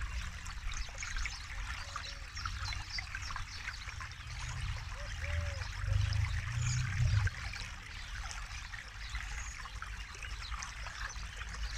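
Forest river flowing over stones, a steady babbling and trickling of water, with a deeper low rush swelling louder between about four and seven seconds in.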